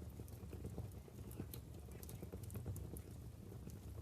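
Wood logs burning in a fireplace: irregular small crackles and pops over a low, steady rumble of the fire.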